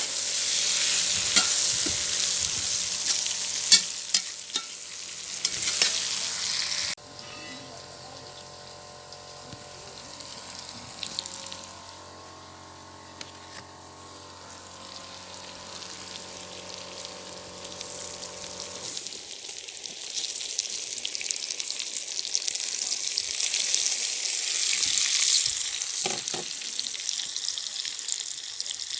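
Food frying in oil in a cast-iron kazan, a steady sizzle with sharp clicks of stirring against the pot. The sizzle cuts off abruptly about a quarter of the way in, stays quieter for a while, then builds back up loudly near the end.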